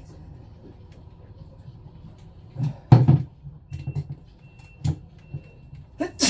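Scattered knocks and clunks of pump parts being handled during a gasket replacement, the loudest a pair about three seconds in, over a steady low hum.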